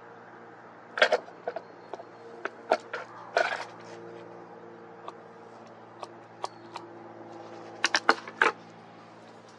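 Plastic bottle being handled and worked: scattered sharp clicks, taps and short crinkles, in clusters about a second in, around three seconds and near the end, over a steady low hum.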